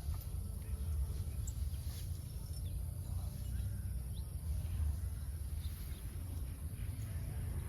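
Outdoor rural ambience: a steady high insect drone, a few faint short bird chirps, and a low rumble from wind on the microphone.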